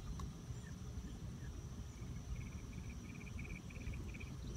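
Outdoor pond-side ambience: low wind rumble on the microphone under a thin, steady high insect-like whine. From about halfway in, a rapid run of short, evenly spaced chirps, roughly five a second.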